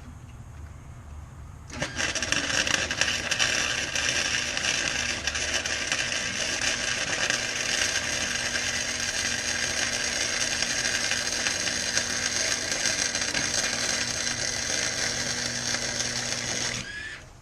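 Wire-feed flux-core arc welder crackling and sizzling steadily through one long vertical weld bead. It starts abruptly about two seconds in and stops just before the end.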